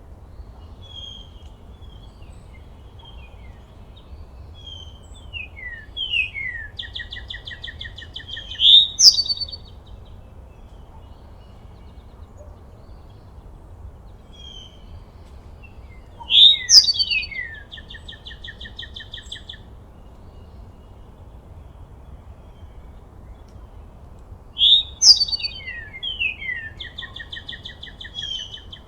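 A songbird singing the same phrase over and over: a few sharp high notes sliding down into a rapid trill, loudest three times about eight seconds apart. A steady low rumble runs underneath.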